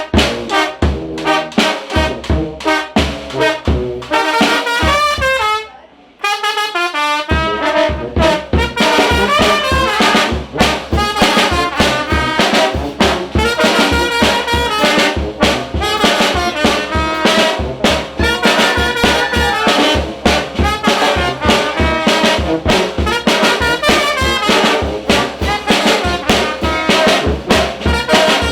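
Mexican brass banda playing: trumpets and trombones over a steady low beat. A few seconds in, the low beat drops out while a lone melodic run plays, and the full band comes back in about seven seconds in.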